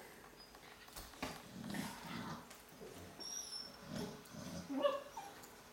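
Dogs making sounds as they tussle, with scattered low noises and one short, pitched dog cry about five seconds in.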